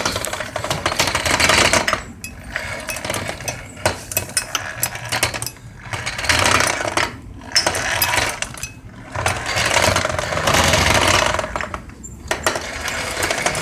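Rattling and clanking from a 52cc two-stroke scooter engine as the bike is moved, in repeated spells of about one to two seconds: the engine has come loose in its mount.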